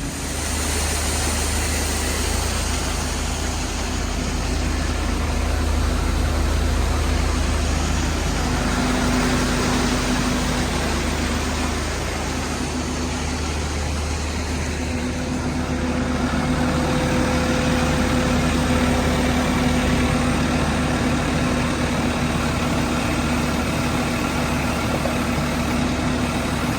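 Heavy engines running steadily with a low hum while a dump truck's bed is raised with help from a loader; the truck's lift cylinder is too weak to lift the load on its own. A steady higher tone joins in about halfway and holds.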